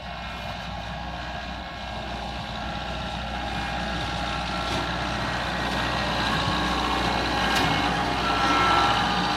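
Kubota LX3310 compact tractor's diesel engine running under load, with a steady high whine over it, growing louder until near the end.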